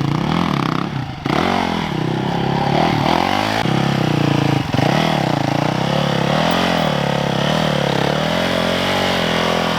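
Yamaha YZ450FX dirt bike's single-cylinder four-stroke engine running under throttle, its pitch rising and falling again and again as the revs are worked up and down, with a short dip about four and a half seconds in.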